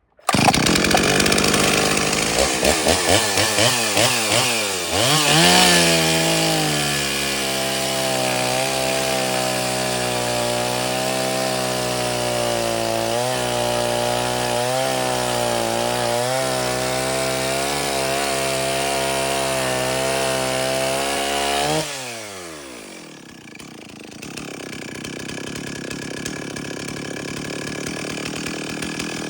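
Stihl 034 two-stroke chainsaw blipped in short revs, then run at full throttle through a long steady cut in wood; about 22 seconds in the throttle is released and the engine pitch falls away and it settles lower. The owner thinks the high-speed mixture might be a little rich.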